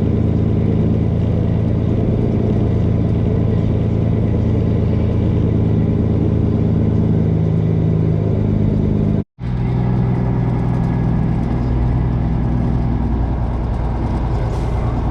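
Tanker semi truck's diesel engine running steadily under way, heard from inside the cab, with a brief dropout about nine seconds in.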